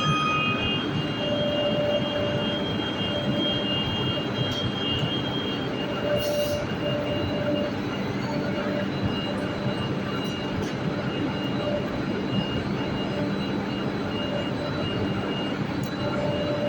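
Enclosed belt conveyor running: a steady mechanical rumble with faint whining tones that come and go.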